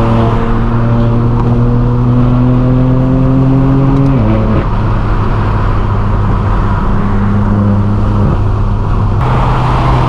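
Straight-piped BMW M4 F82 exhaust from its twin-turbo inline-six, heard on the move. It pulls with a slowly rising pitch for about four seconds, then drops sharply in pitch at an upshift, and cruises with smaller shifts in pitch near the end.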